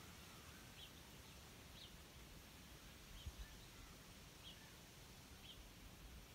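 Near silence with a faint steady hiss, a small bird chirping with short high notes about once a second, and a soft low thump about three seconds in.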